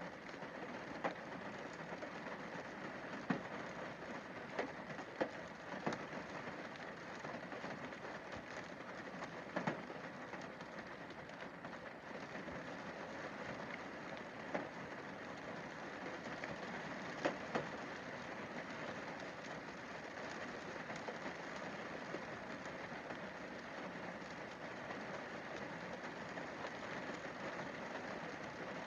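Rain falling on a windscreen: a steady even hiss of rain, with a scattering of louder single drops striking the glass, most of them in the first twenty seconds.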